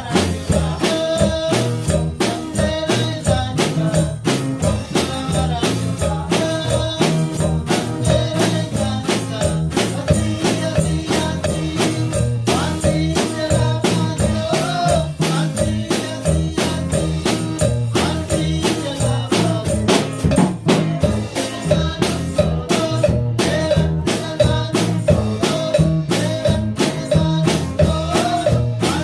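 Live praise band playing an upbeat song without vocals, a drum kit keeping a steady fast beat over bass and guitar.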